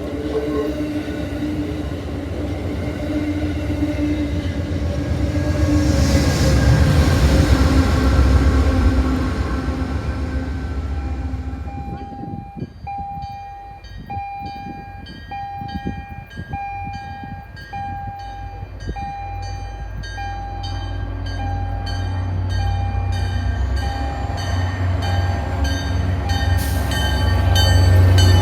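A train running past, loud and steady with held tones, for about twelve seconds. Then a railroad crossing bell dings about once a second, while a low train rumble builds again toward the end.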